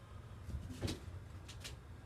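A few light clicks and knocks, four in all within under two seconds, over a faint steady low hum.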